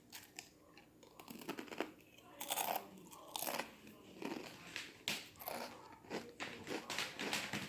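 A person biting and chewing crunchy baked potato chips close to the microphone, in irregular bursts of crunching.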